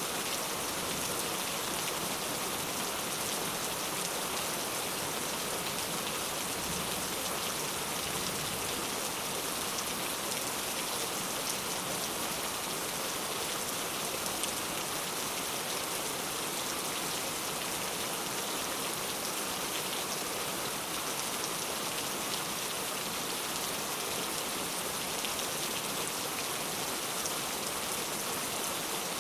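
Heavy rain falling steadily, an even hiss of many drops with occasional sharper drop ticks.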